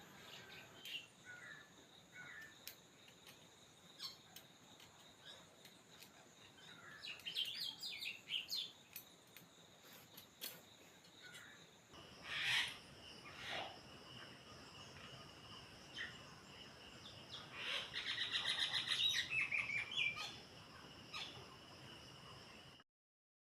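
Faint bird chirps, in short rising and falling calls, over a steady high-pitched whine and scattered small clicks. The background changes abruptly about halfway through, and the sound drops to silence near the end.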